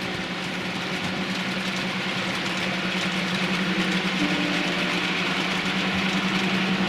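Model railway locomotive running with a steady, even hum and a hiss over it.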